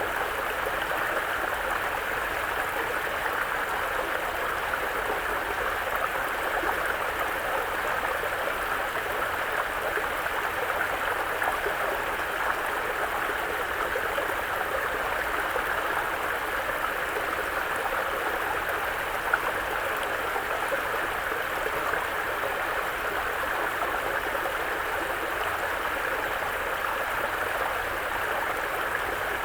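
Mountain brook: water running and burbling steadily over rocks, with one brief tick about two-thirds of the way through.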